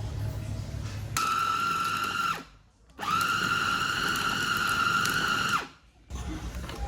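Small electric kitchen chopper motor running in two pulses, a short one of about a second and then one of about two and a half seconds, each a steady high whine that winds down as it stops. This is typical of grinding chicken meat into paste for meatballs.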